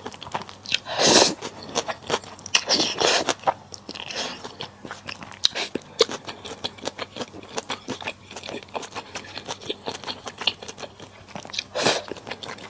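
Close-miked eating of malatang: dense wet chewing and crunching, with louder noisy swells about a second in, around three seconds, and near the end.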